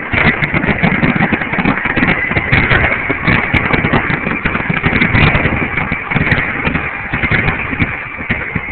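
Car engine running, under a dense, steady wash of outdoor noise.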